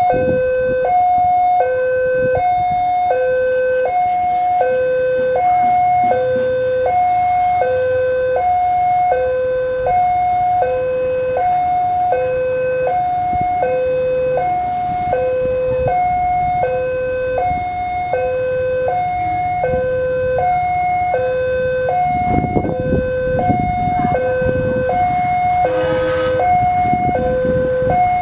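Indonesian railway level-crossing warning alarm sounding its electronic two-note signal, a higher and a lower tone alternating about once a second without pause: the crossing is warning that a train is coming. A low rumble of traffic or machinery grows louder in the last few seconds.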